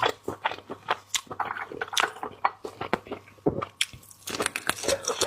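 Close-miked eating of raw seafood: wet squishing bites and chewing, with many sharp, irregular clicks and crackles.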